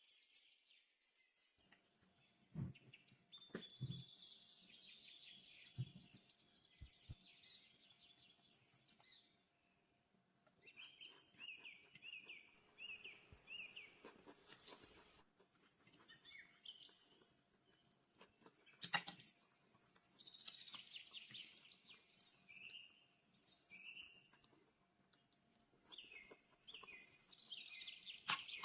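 Faint birdsong: many short chirps and repeated trilled phrases, with a few light knocks.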